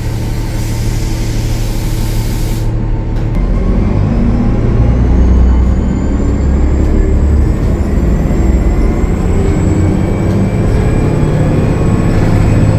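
Cummins ISL9 diesel engine of a Gillig Low Floor transit bus pulling under load, its turbocharger whistle climbing in pitch over a few seconds and then holding steady. A short burst of air hiss comes in the first couple of seconds.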